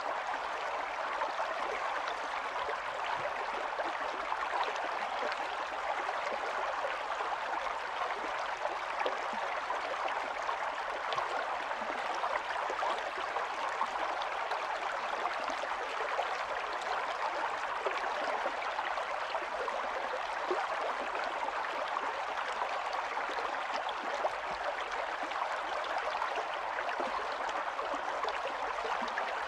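A small stream's running water, a steady babbling rush with fine gurgling detail that doesn't change.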